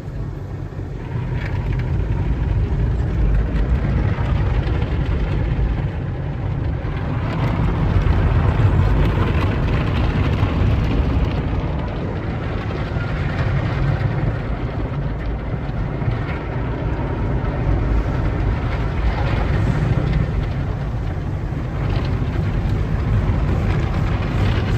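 Car wash running: a steady low rumble with a hiss of spray above it, swelling and easing slowly.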